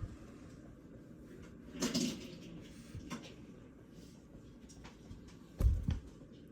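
Mostly quiet room, with a brief rustle about two seconds in, a couple of light clicks, and a low thump near the end, as of things being knocked or handled.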